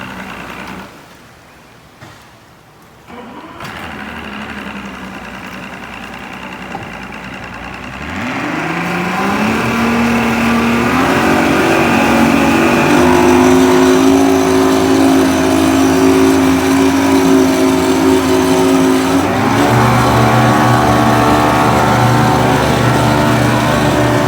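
Outboard motor of a 2003 Champion bass boat running in a test tank. It comes on about three seconds in, revs up with a rising tone about eight seconds in and holds a steady higher speed, then its tone changes with a deeper hum near the end.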